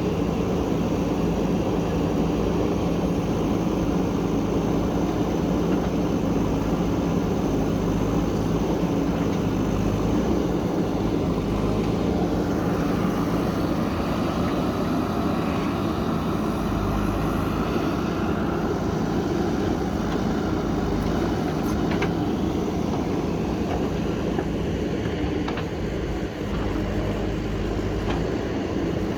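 Backhoe loader's diesel engine running steadily under work, with a few faint knocks about three quarters of the way in.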